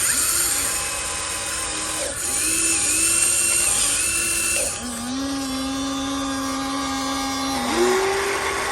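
Small electric motors of a remote-controlled model excavator whining under load. The pitch holds and then jumps to a new level several times as the machine's movements change, dropping lower about five seconds in and rising again near the end.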